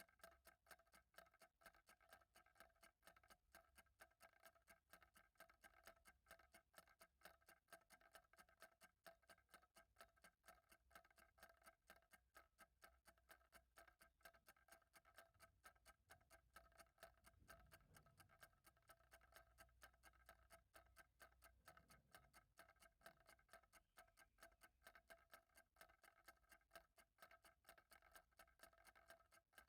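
Faint, even ticking of a clock.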